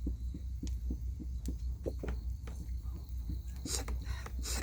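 A hand fan is beating air over a wood fire, making rapid rhythmic low puffs about five a second, with light knocks on top. There are two short hissing whooshes near the end. The fanning is meant to get damp firewood to catch, and the flames are not rising much.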